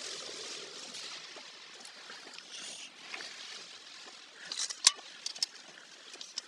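Steady hiss of a car driving on a wet road in typhoon rain, easing slightly, with a few sharp clicks a little before five seconds in, one of them loud.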